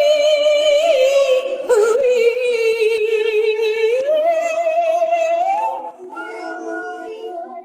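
Unaccompanied singing voice holding one long wordless note with vibrato, dipping in pitch about a second in and climbing back up around four seconds in. Near the end it drops in level and gives way to softer layered harmony voices.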